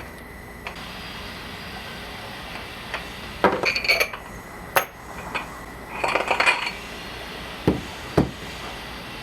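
Metal tools and parts clinking and knocking during shop work: a few clusters of clinks in the middle, then two sharp knocks near the end.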